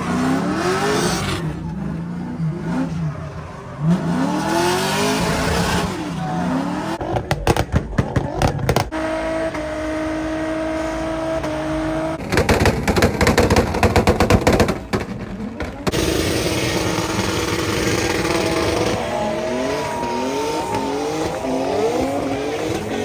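Car engines revving up and down repeatedly, with two stretches of rapid exhaust pops and crackles, one around a third of the way in and a longer one around the middle.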